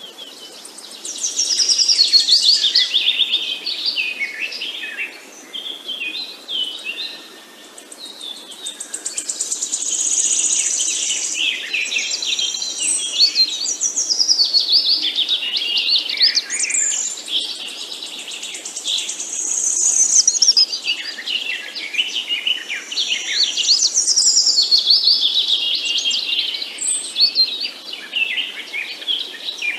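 Several songbirds singing at once: a busy, continuous chorus of quick chirps, trills and warbled phrases, with high thin notes over a faint background hiss.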